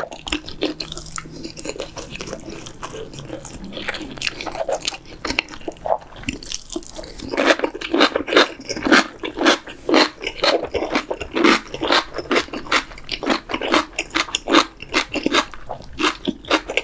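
Crunchy food being bitten and chewed close to the microphone: a rapid run of crisp crunches, sparser and softer at first and growing denser and louder about seven seconds in.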